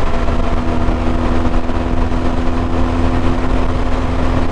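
Motorcycle engine running steadily at cruising speed: an even engine hum over a constant low rumble of road and wind noise.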